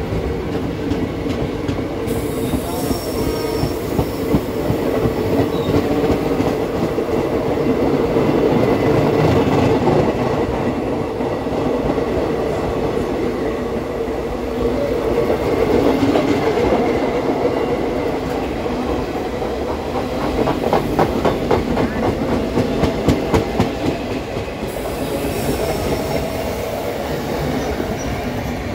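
Passenger train running on the rails with a steady wheel rumble. About twenty seconds in comes a run of rhythmic clickety-clack as the wheels cross rail joints.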